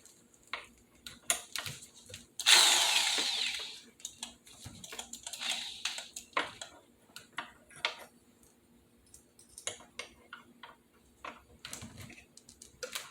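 Corded electric drill run once for about a second and a half, boring a pilot hole for a window blind's mounting bracket. Scattered light clicks and knocks of the bracket and tools being handled come before and after it.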